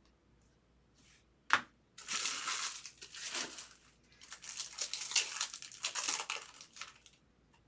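Foil trading-card pack wrapper being torn open and crinkled. A sharp click comes about a second and a half in, followed by two long stretches of crinkling.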